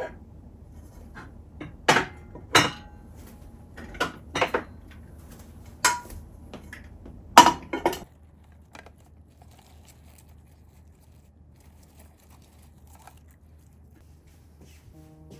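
Dishes and kitchen utensils clinking and being set down, about seven sharp knocks in the first half, then only a low steady room hum.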